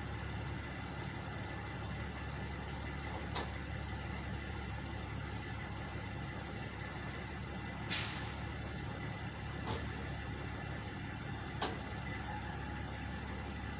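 Truck engines idling steadily, with four short sharp hisses of air released from a truck's air brake system, the second, about eight seconds in, the loudest and longest.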